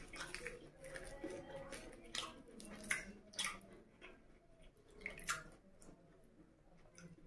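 Close-up chewing of puri soaked in egg curry: irregular wet smacks and clicks of the mouth.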